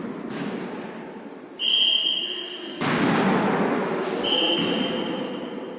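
Two long, steady, high whistle blasts in a large hall, the first about a second and a half in and the second in the last second and a half. Between them a louder wash of hall noise with a few thuds of a ball.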